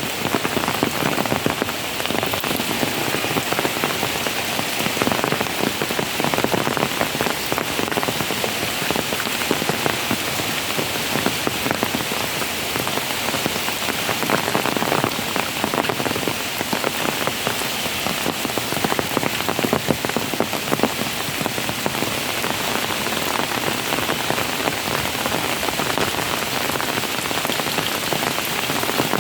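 Steady heavy rain falling and pattering on surfaces, an even hiss of many drops with no letup.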